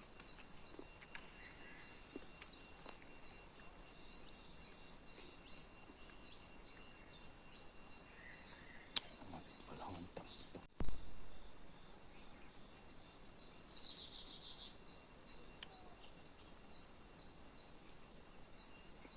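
Outdoor countryside ambience: a steady series of short high-pitched chirps, about three a second, with a few louder calls over it. A single low thump comes a little before the middle.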